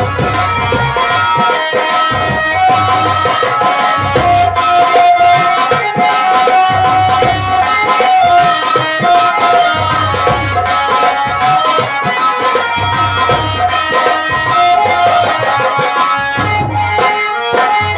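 Nautanki opening instrumental music: a held, wavering melody line played over drums beating in a steady, repeating rhythm.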